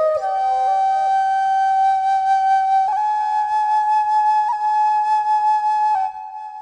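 Flute playing a slow melody of long held notes with a breathy tone; the note steps slightly about three seconds in and stops about six seconds in.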